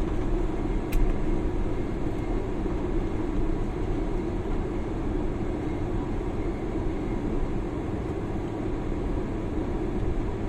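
Steady cabin noise inside a jet airliner just after touchdown, as the engines and wheels rumble while the plane slows on the runway. The deep rumble eases after the first second, and there is a single sharp click about a second in.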